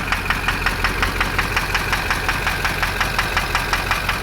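LB7 Duramax 6.6-litre V8 diesel idling with a sharp, regular tick-knock about six times a second, the clatter the owner suspects comes from a bad fuel injector.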